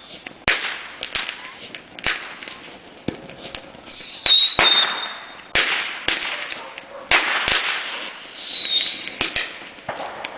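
A box of old fireworks going off together: firecrackers banging and popping at irregular intervals, with crackling between. Three whistling fireworks let out falling shrieks, about four, six and eight and a half seconds in.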